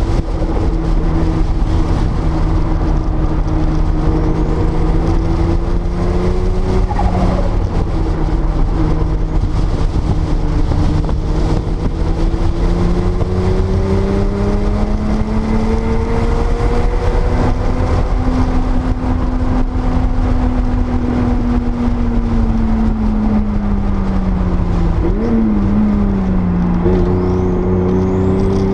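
1979 Porsche 930 Turbo's air-cooled turbocharged flat-six driven on track, heard onboard, its pitch rising and falling slowly with speed and dipping sharply near the end, over a steady low rumble of wind and road noise.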